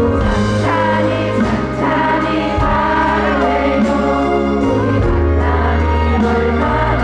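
Loud live concert music over a PA system: a band with a held bass line that changes note every second or two, and choir-like vocals over it.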